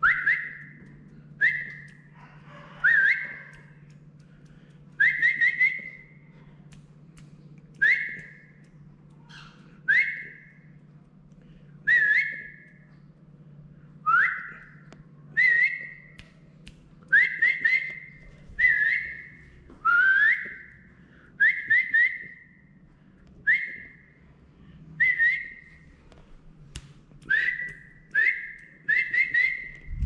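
Caged pet songbird whistling: short clear notes that swoop up and then hold steady, repeated every second or two, sometimes in quick runs of two or three.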